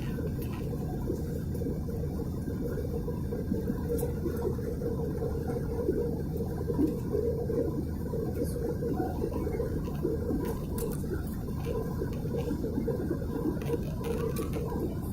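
Steady cabin noise inside an Airbus A320 in flight: a low, even rumble of engines and airflow, with a few faint ticks.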